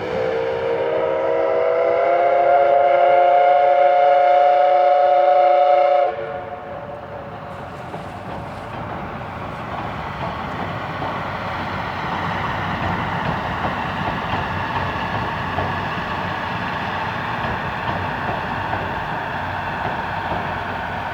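Steam whistle of Tobu's C11 207 steam locomotive blowing one long blast of several tones together, rising slightly in pitch as it opens and cutting off abruptly after about six seconds. Then the steady rolling noise of the train running on the rails.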